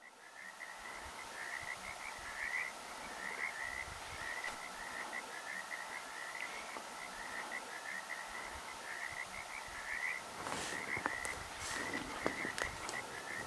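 Frogs calling in chorus: a continuous run of short, rapidly repeated croaks, with a few faint clicks and knocks in the last few seconds.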